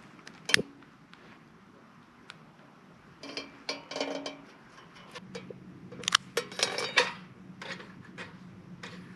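Sharp clicks and metallic clinks and rattles in short clusters, one loud click about half a second in: twigs and kindling being handled in and against a stainless-steel Solo Stove fire pit while trying to light it.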